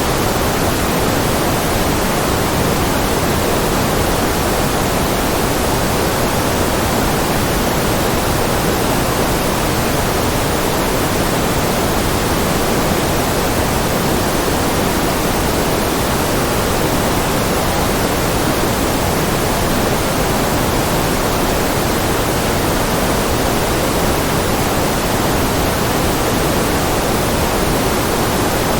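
Generated white noise playing as a steady, unbroken hiss. It is fuller in the low and middle range than at the top, and does not change at all.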